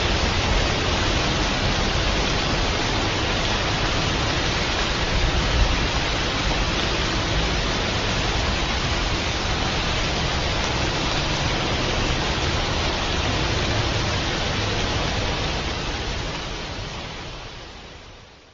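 Steady heavy rain, an even hiss with a low rumble beneath, fading out over the last few seconds.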